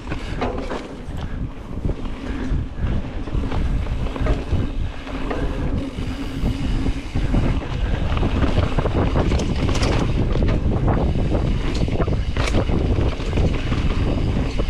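Full-suspension Specialized Stumpjumper EVO mountain bike descending a rough, technical trail: wind buffeting the microphone and tyres rumbling over the dirt, with many quick clicks and clacks as the bike hits rocks and bumps. It gets a little louder and busier about halfway through.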